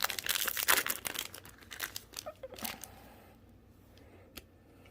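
A foil trading-card booster pack being torn open and its wrapper crinkled, a dense run of crackles that dies away after about three seconds. One faint click near the end.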